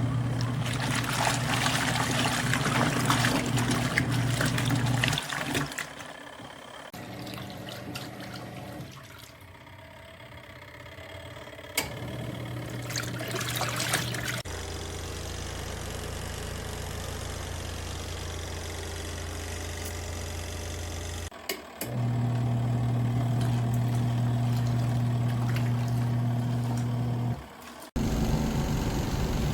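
Auertech portable twin-tub washing machine running: a steady motor hum with water splashing and trickling over it. The sound changes abruptly several times.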